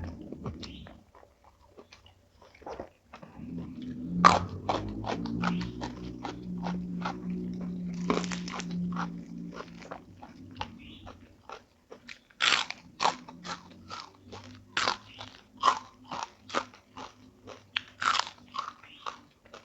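A person chewing crunchy food close to the microphone: quiet at first, then many sharp, irregular crunches from about four seconds in.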